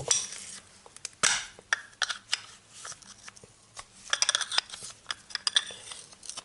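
Wrench and small metal parts clicking and clinking as the stem of a Valtek LPG injector is unscrewed: scattered sharp metallic clicks, the loudest about a second in and a quick run of them about four seconds in.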